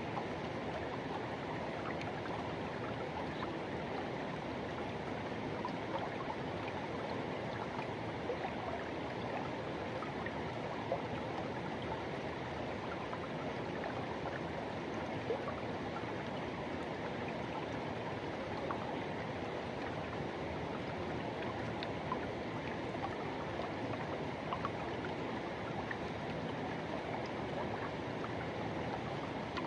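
Forest river rushing and gurgling over rocks, a steady flow with small splashes now and then.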